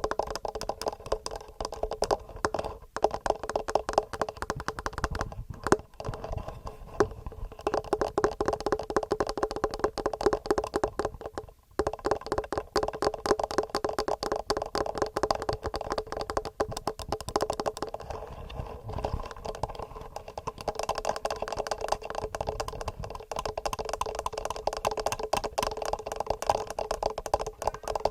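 Fingernails tapping fast and regularly on a TASCAM recorder's microphone: a dense stream of quick clicks, broken by short pauses a few times.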